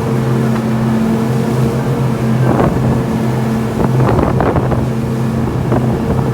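Tour boat's engine running steadily at cruising speed, a constant low drone. From about two and a half seconds in, gusts of wind noise on the microphone come and go over it.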